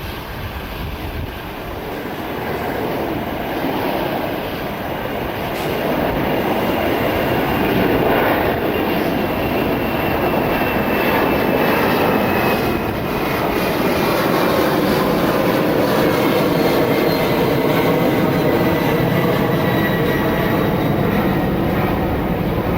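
Jet airliner engines running, growing louder over the first several seconds and then staying loud, with a high whine slowly falling in pitch.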